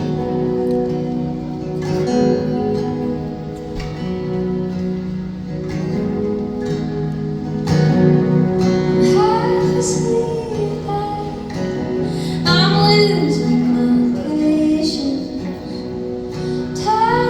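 Acoustic guitar played live, sounding a repeating chord pattern. A singing voice comes in about halfway through, with gliding held notes.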